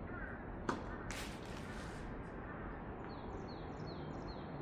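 A tennis ball struck once by a racket, a sharp pop about two-thirds of a second in, followed by a brief hiss. Later, a short run of quick falling chirps sounds over steady outdoor background noise.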